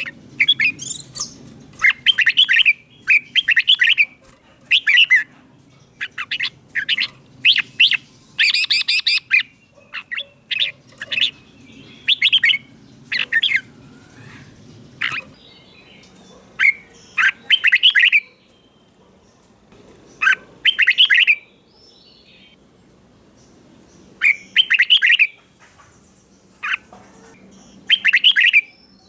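Red-whiskered bulbul singing: short, loud, chirpy whistled phrases repeated every second or two, with a few brief pauses.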